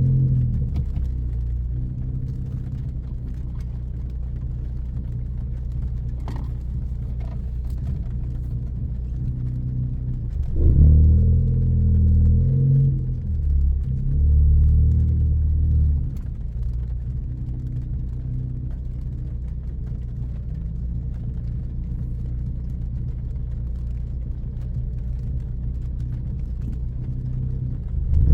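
Tuned 2014 Ford Focus ST's turbocharged 2.0-litre four-cylinder, with a high-flow catted downpipe and straight 2.5-inch exhaust, cruising with a steady low drone. About ten seconds in it is pushed harder and gets louder for several seconds, with a short dip in the middle, then settles back to the cruising drone.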